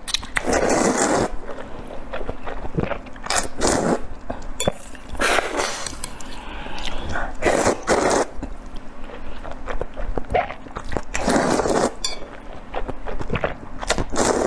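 Close-miked eating: chewing and biting with many small wet clicks, broken by louder noisy bursts about every two to three seconds.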